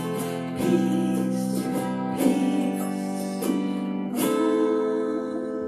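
Slow meditative acoustic guitar music: chords strummed a few times and left to ring, a wavering melody line held over them, fading down near the end.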